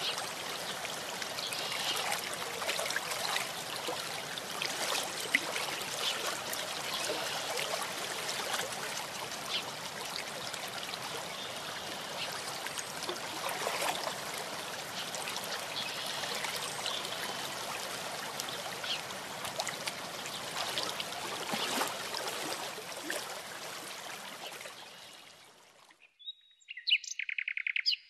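A stream rushing steadily with birds chirping over it. The water sound fades out near the end, and a short, loud, clear bird call follows.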